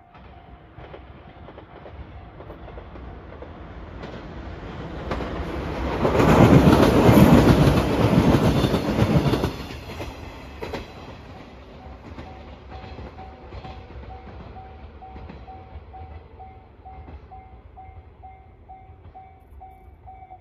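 A 115-series electric train passing close by. Its running noise and wheel clatter swell to a peak about six to nine seconds in, then fade away. A level-crossing bell dings about twice a second, faint at the start and plain again through the second half.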